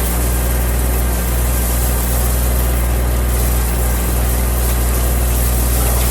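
Heavy machine engine running steadily at an even speed, with a strong low hum, while gravel is being moved.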